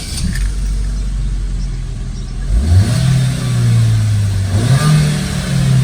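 2012 Chevrolet Utility 1.4's four-cylinder petrol engine on its standard factory exhaust, idling, then revved up about two and a half seconds in and held at raised revs, dipping briefly and rising again before easing off slightly near the end.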